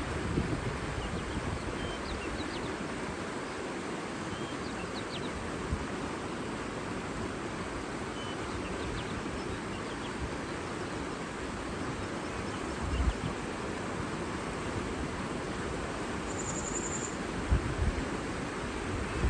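Steady rush of outdoor water noise with faint, brief bird chirps in the first half and a short high call near the end. A few low gusts of wind buffet the microphone.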